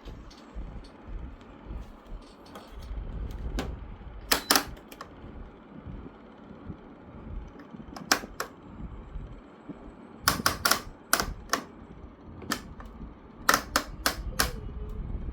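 Plastic vertical louvers of a Daikin FTC15NV14 mini-split indoor unit being pushed by hand for left-right airflow adjustment, giving sharp clicks in pairs and small clusters, over a steady low rumble.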